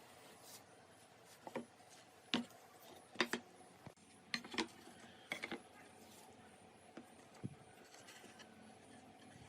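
A scattering of light knocks and clacks, about ten at uneven gaps, as of hard objects such as wood pieces or tools being handled and set down.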